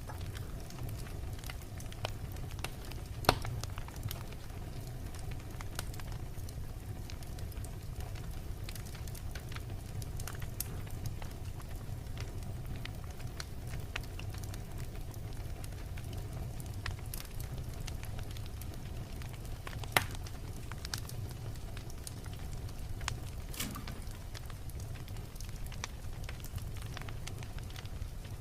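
Wood fire burning in a fireplace: a steady low rumble of flames with scattered crackles and two loud pops, about three seconds in and near twenty seconds in.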